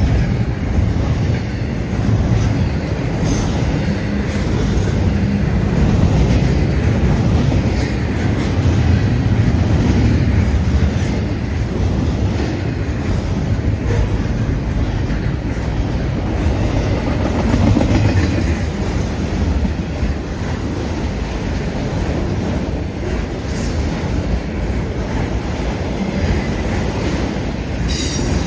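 Long freight train rolling past: a steady rumble and clatter of wheels on rail, with a few brief high wheel squeals at intervals.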